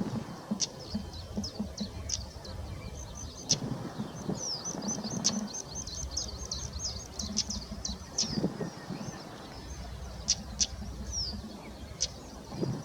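Stonechats calling: many short, high chirps with a few sharp clicks, busiest in the middle stretch, over a low steady rumble.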